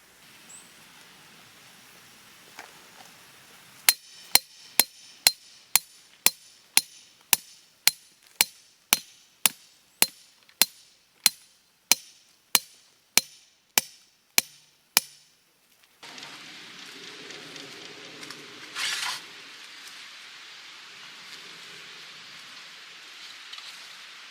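Hammer striking metal in a steady run of about two dozen ringing blows, roughly two a second, from about four seconds in to about fifteen seconds, getting slowly quieter. Then a steady hiss sets in, with a brief louder rush near nineteen seconds.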